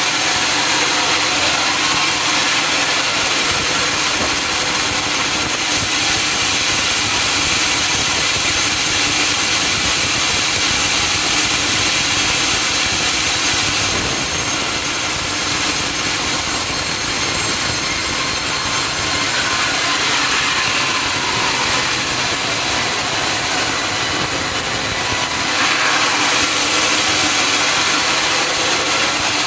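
Sawmill saw running and cutting through a log, a loud steady mechanical noise with an engine hum beneath it. The sound eases slightly for a stretch in the middle, then comes back up.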